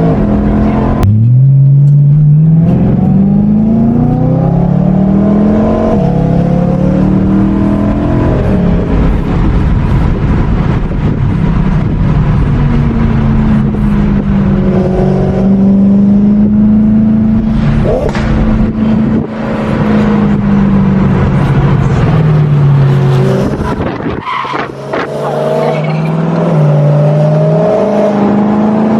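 Car engine accelerating hard through the gears. Its pitch climbs and then drops at each upshift several times, holds a steady cruising note in the middle, and picks up again near the end.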